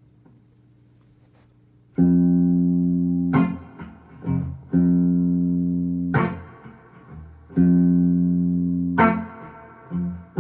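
Guitar intro to a song: after about two seconds of quiet, strummed chords ring out one after another, each held for a little over a second with a quick strum or two between them.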